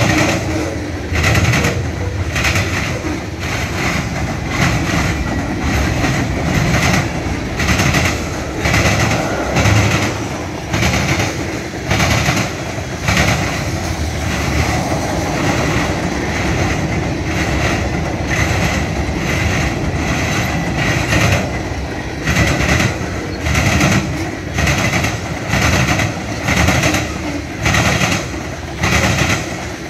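Freight train cars rolling past close by, covered hoppers and tank cars. There is a steady rumble under regular clacks of the wheels over the rails, coming in pairs near the end.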